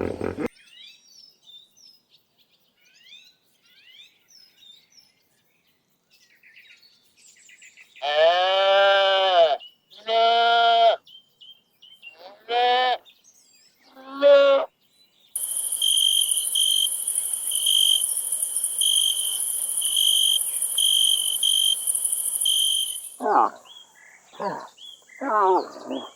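Farm animals bleating: two long wavering bleats, then two shorter ones. After that comes about eight seconds of steady high insect buzzing with a regular chirp, then a few more bleats near the end. Faint bird chirps come first.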